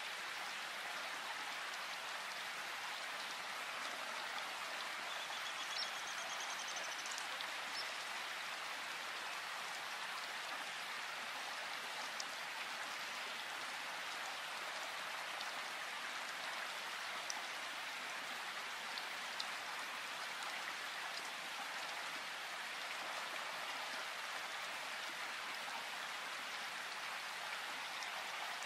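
Steady rain falling in a forest, an even hiss of drops with a few separate nearer drips ticking now and then.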